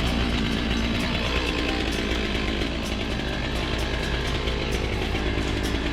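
An engine running steadily, with no pauses.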